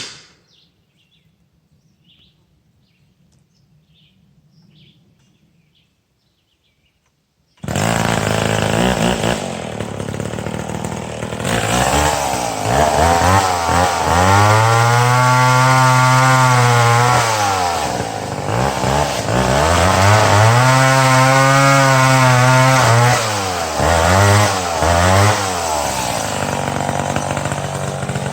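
Quiet for the first several seconds, then a chainsaw cutting into dead ash trees comes in suddenly at full volume. It revs up under load twice, each time for about four seconds, and drops back between cuts.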